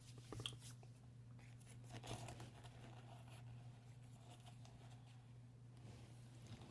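Faint crunchy chewing of dry chunks and powder, with a few sharper crunches about half a second and two seconds in, over a steady low hum.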